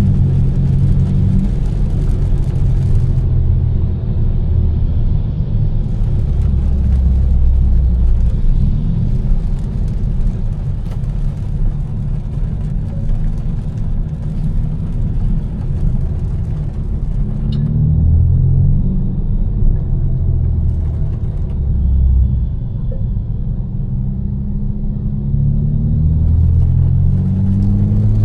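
Tuned BMW M4's twin-turbo inline-six, with catless downpipes and an Fi exhaust, running with a low rumble as the car is driven, its pitch rising under acceleration a little past halfway and again near the end. A steady hiss of tyres on the wet road runs underneath.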